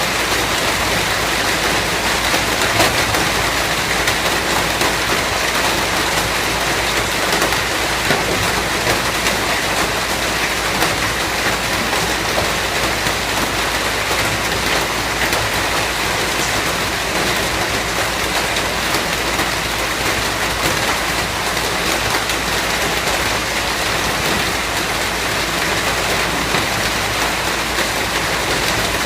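Steady heavy rain falling, a constant hiss of many drops with scattered small patters of drops striking a surface.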